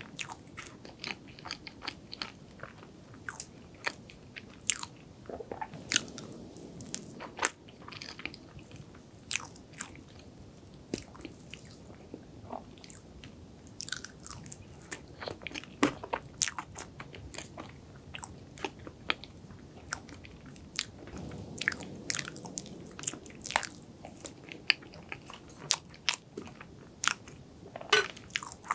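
Close-miked chewing of soft chocolate cream cheese cake: wet, sticky mouth sounds with frequent short, sharp clicks and smacks.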